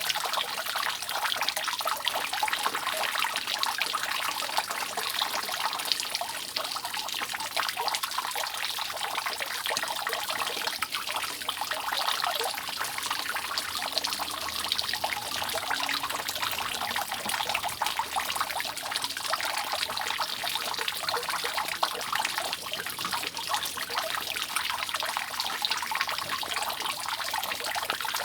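Water dripping continuously off a roof: a dense, steady trickle of many drops splashing without pause.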